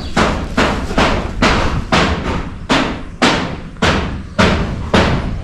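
Steady hammering: hard, evenly spaced blows about two a second, each ringing briefly after the strike.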